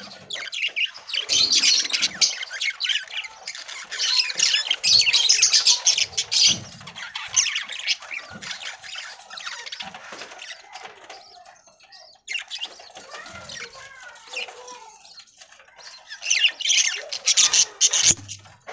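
A flock of budgerigars chattering and chirping with quick, high warbles, busiest at first and again near the end, thinner in between.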